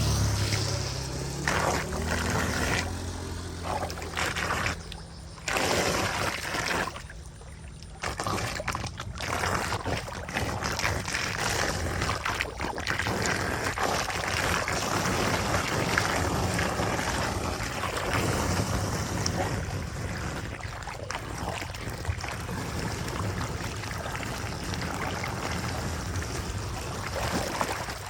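Water rushing and splashing in a steady noisy flow, with a low machine hum in the first few seconds.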